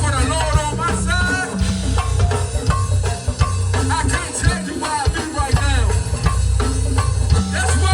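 Live gospel go-go band playing: a heavy bass line and drum kit with shaker-like hand percussion, and melodic lines over the top.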